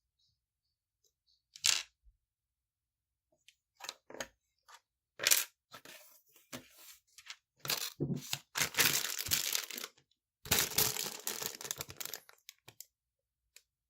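Small plastic Lego pieces being handled and clicked together, with scattered sharp clicks and taps. Then come two longer spells of rattling and rustling, as of loose pieces being sorted through, about eight and ten and a half seconds in.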